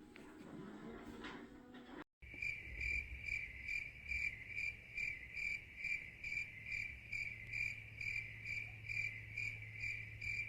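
A cricket chirping in an even, steady rhythm, about three chirps a second, over a low steady hum. The chirping starts after a short break about two seconds in.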